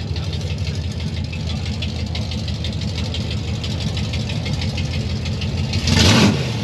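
Car engine idling with a fast, uneven low pulse and a light ticking over it. A brief, louder rush of noise comes near the end.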